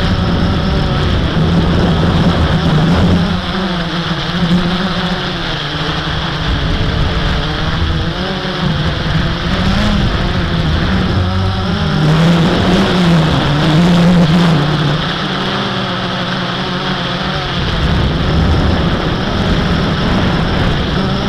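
Blade 350 QX quadcopter's electric motors and propellers buzzing in flight, the pitch wavering up and down as the motor speed changes.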